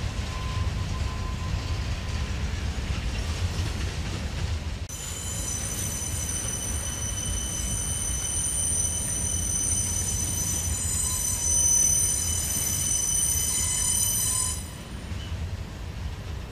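Freight train cars rolling past with a steady low rumble of wheels on rail. About five seconds in a high-pitched wheel squeal of several steady tones sets in, runs for about ten seconds and cuts off suddenly.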